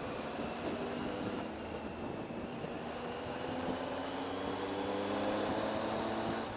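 Triumph Tiger 800's three-cylinder engine running under way, its pitch climbing steadily through the second half as the bike accelerates.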